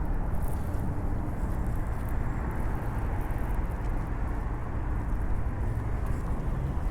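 Steady outdoor city ambience: a low, continuous rumble of traffic.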